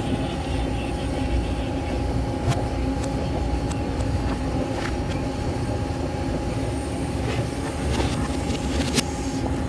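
Vitória–Minas passenger train running on the track, played backwards: a steady rumble with a constant hum and scattered sharp clicks.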